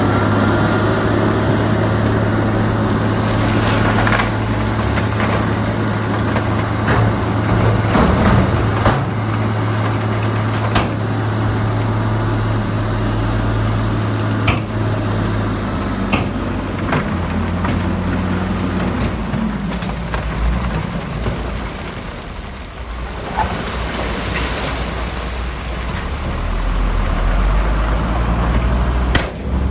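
Heavy diesel engine of earthmoving machinery running under changing load, with scattered sharp metallic clanks. The engine note drops and eases off about two-thirds through, then comes back up.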